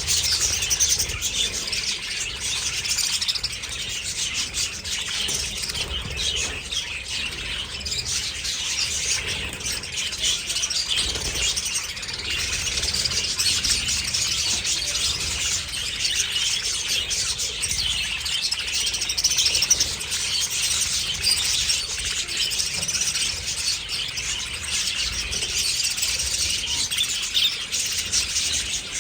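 A large flock of budgerigars chattering and chirping all at once, a dense continuous warbling din of many overlapping calls.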